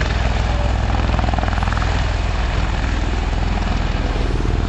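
Helicopter overhead, its rotor beating in a steady, fast throb.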